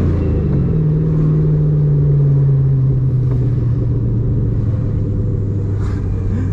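Car engine heard from inside the cabin, a steady drone whose pitch eases down over the first few seconds and then holds: the engine revs settling as the car eases off after accelerating.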